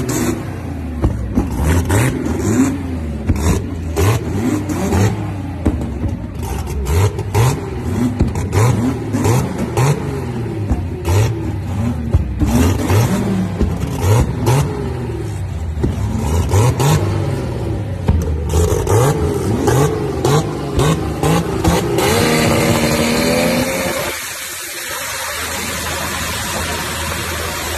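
Chevrolet Opala drag car engine revved again and again through a short side-exit fender exhaust, with loud pops and cracks as the pipe spits flames. Near the end the engine holds a steady high rev for about two seconds, then the deep rumble falls away.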